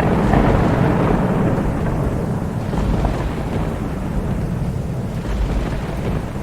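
A roll of thunder that swells in right at the start and rumbles on, slowly fading over several seconds, over a steady wash of rain.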